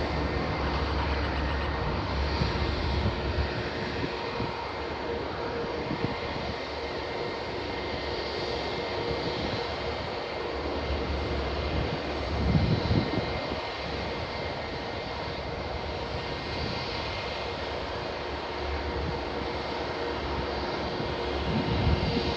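Twin turboprop engines of a Beech C-12U-3 Huron (Pratt & Whitney PT6A) running on the runway, a steady whine-and-rush with steady propeller tones, and low rumbles swelling about twelve seconds in and again near the end.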